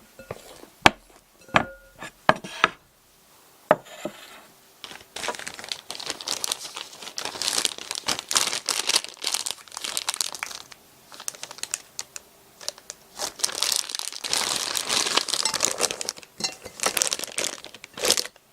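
Crinkling and rustling of a sheet being handled, with a few sharp clicks in the first four seconds.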